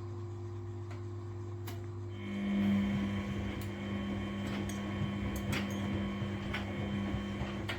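Washing machine running with a steady electric hum. About two seconds in, a louder steady hum starts up, as a motor or pump comes on, with occasional light clicks and ticks.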